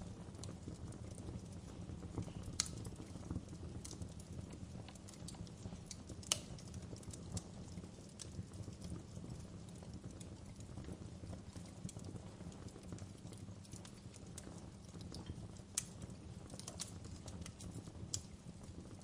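Wood fire crackling in a fireplace: a steady low rumble of burning with scattered sharp pops and snaps at irregular intervals, a few of them standing out above the rest.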